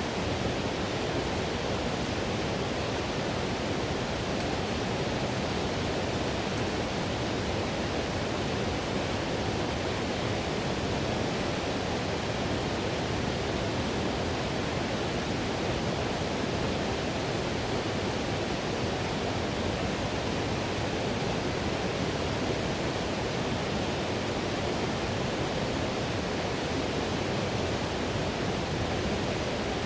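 Whitewater river flowing steadily: a constant, even rush of water with no breaks, fullest in its lower register.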